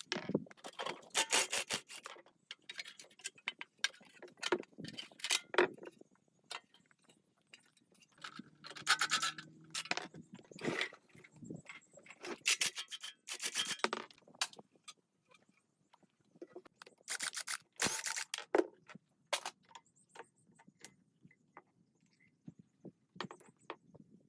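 Hand work on metal generator parts: irregular scraping and rubbing strokes, each up to about a second long, with short pauses between.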